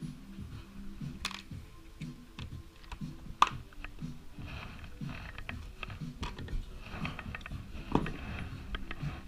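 Scattered small clicks and clinks of hand tools and small metal parts being handled while a motorcycle engine is taken apart, with two sharper clicks about three and a half and eight seconds in.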